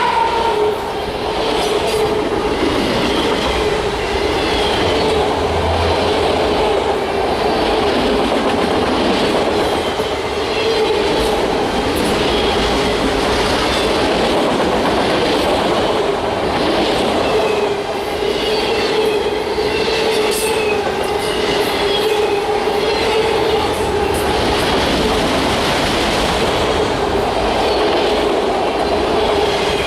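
Freight train cars rolling past at steady speed: continuous wheel-on-rail rumble with clicking over rail joints, a steady ringing tone, and intermittent high wheel squeal.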